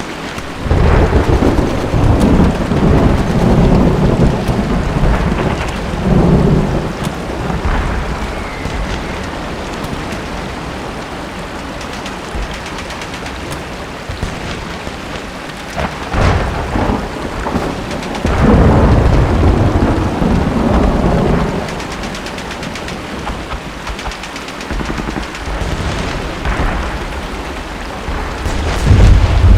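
Steady rain with long, deep rolls of thunder: one rumbling for several seconds from just after the start, another through the middle, and a louder one beginning near the end.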